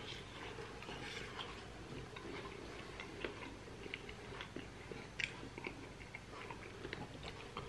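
A person chewing and biting pork rib meat, close to the microphone: scattered small mouth clicks and smacks, with a sharper click about five seconds in.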